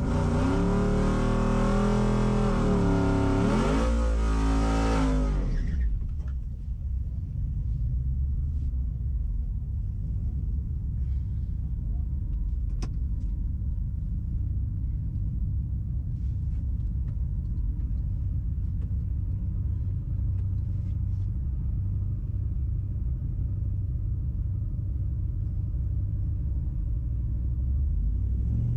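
A race vehicle's engine revving loudly, its pitch rising and falling, cutting off about five and a half seconds in. A steady low engine rumble continues after that.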